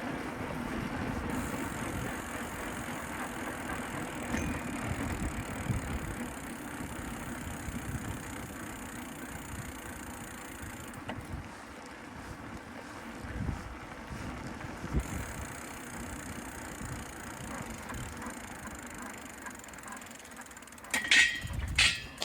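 Steady road and wind noise of a bicycle being ridden, with gusts on the microphone. Near the end, two sharp, loud strikes with a brief ring.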